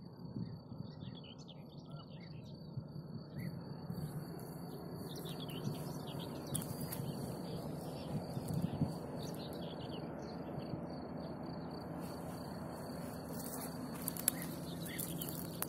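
Small birds chirping and twittering in short scattered calls over a low, steady rumble that grows slightly louder.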